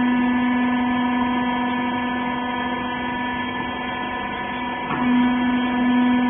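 Hydraulic power unit of a wiper bagging baler, its electric motor and pump running with a steady hum. There is a short click about five seconds in, and the hum then grows louder.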